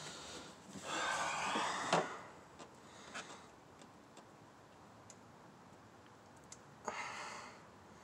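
Scattered light clicks and handling noise from hand tools and parts being worked in the engine bay, with a short rushing noise about a second in that ends in a sharp click, and another short rushing noise near the end.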